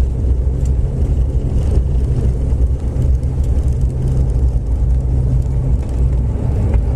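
Passenger aircraft's engines running with a steady, low rumble, heard inside the cabin while the plane is on the ground after landing.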